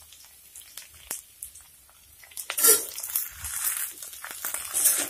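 Cut yardlong beans tipped into a karahi of potatoes frying in hot oil: a sudden sizzle about two and a half seconds in, then uneven crackling as the beans settle, growing louder near the end. Before that, only a few faint clicks.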